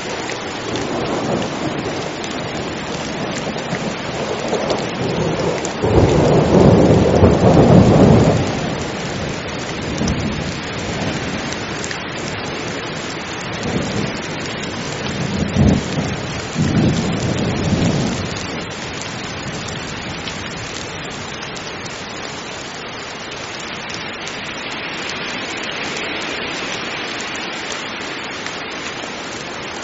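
Heavy rain falling steadily, with a loud roll of thunder about six seconds in lasting a couple of seconds, then weaker rumbles of thunder around the middle.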